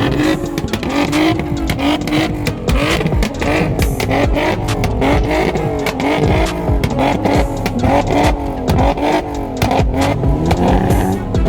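Car engines revving repeatedly, with the pitch rising and falling in quick blips and crackles from the exhaust. Near the end, one engine's note climbs in a longer rev.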